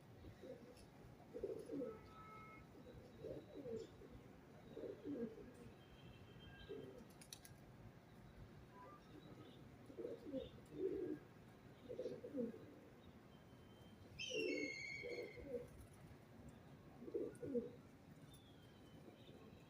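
Pigeons cooing over and over, a low coo every second or two, with small birds chirping faintly now and then and a brighter burst of higher calls about two-thirds of the way through.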